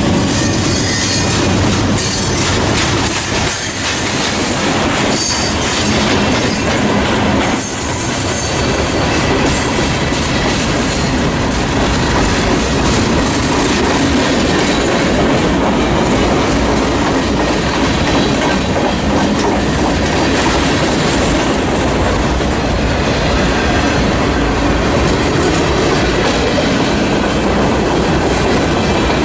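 A freight train's cars rolling steadily past, wheels clacking over the rail joints, with bouts of high wheel squeal in the first several seconds.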